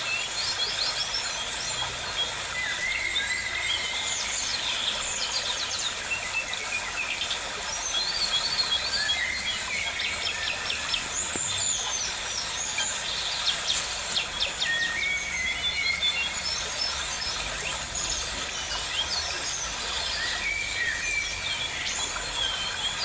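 Birds chirping and calling in an aviary: many short chirps, trills and whistles, one after another, over a steady background hiss.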